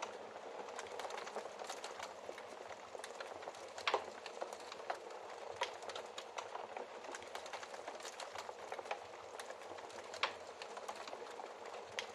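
Wood fire burning in a fireplace: a steady soft crackle with scattered sharp pops, the loudest about four seconds in and again about ten seconds in.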